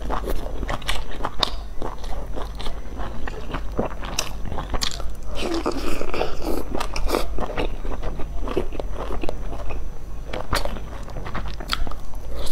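Close-miked biting and chewing of pan-fried chive-and-egg dumplings: many short crisp clicks and wet mouth sounds, over a steady low hum.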